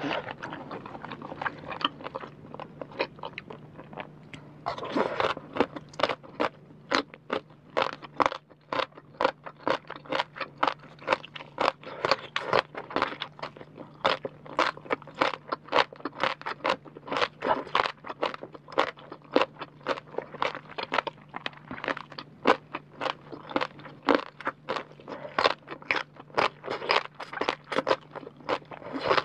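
Chewing of crunchy rau tiến vua (celtuce stem) strips, a long run of rapid crisp crunches. The crunches are fainter for the first few seconds, then louder and closer together from about five seconds in.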